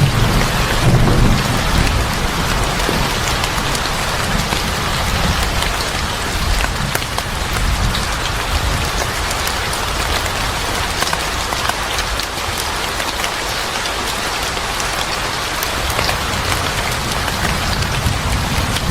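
Steady heavy rain, with a low rumble of distant thunder in the first second or two that fades away.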